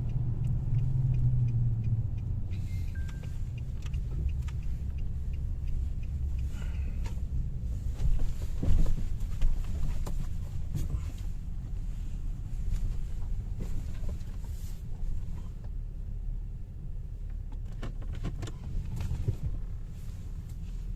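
Car running at low speed, a steady low rumble, with scattered clicks and knocks, the loudest about eight seconds in.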